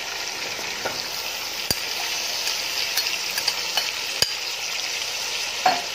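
Chicken and onions frying in hot oil in a metal pot as chopped tomatoes go in: a steady sizzle, broken by two sharp clicks a couple of seconds apart.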